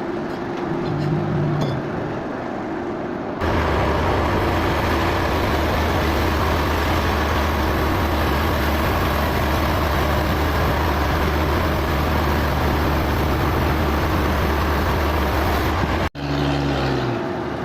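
Sawmill machinery running steadily, a loud noisy drone with a deep hum, broken by abrupt changes about three seconds in and again near the end as the shots change.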